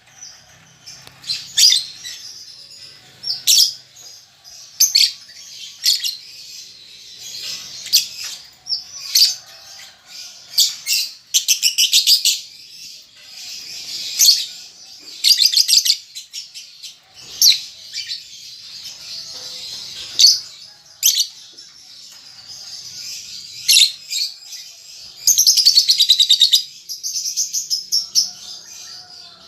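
Young lovebird chirping: sharp, high calls repeated every second or so, some in quick runs of rapid ticking notes, and a longer rapid chatter near the end. These are a young bird practising the ticking 'ngetik' and chattering 'ngekek' calls.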